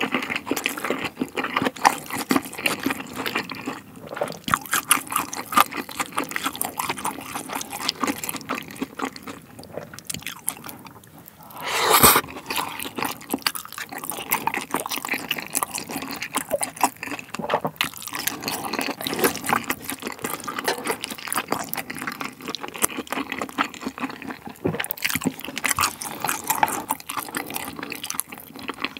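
Close-miked wet chewing and mouth smacking as mouthfuls of spicy stir-fried pork intestines (gopchang) with vegetables are eaten: a dense, uneven run of small wet clicks, with one louder, longer noise about twelve seconds in.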